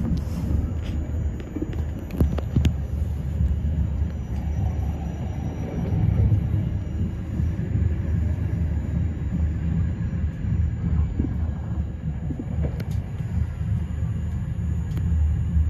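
Steady low rumble of a moving Eurocity passenger train heard from inside the coach: wheels running on the rails, with a few sharp clicks as it passes over joints and points.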